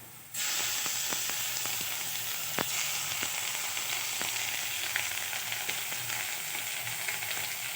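Onions and ginger paste sizzling loudly in hot mustard oil in a kadai, the sizzle jumping up suddenly about a third of a second in, with light clicks of a spatula stirring against the pan.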